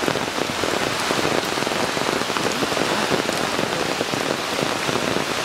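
Steady rain falling on open water and wet mud, a dense even patter of drops.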